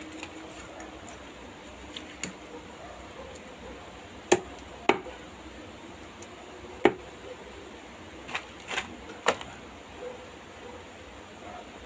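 Knife chopping fish on a cutting board: about seven sharp, irregularly spaced chops.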